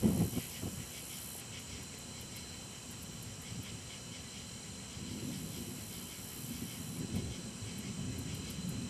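Thunder: the tail of a loud clap fades in the first half second, then low rumbling comes back about five seconds in and swells towards the end, over a steady hiss.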